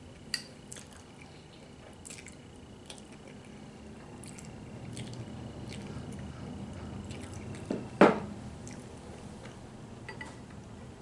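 Mouth sounds of eating a stew: soft chewing and squishy, wet clicks, with one sharper, louder sound about eight seconds in.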